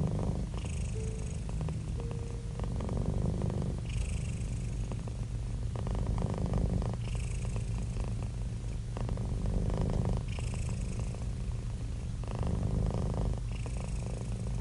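Domestic cat purring close up, a low 25 Hz rumble that swells and eases with each breath, about once every three seconds.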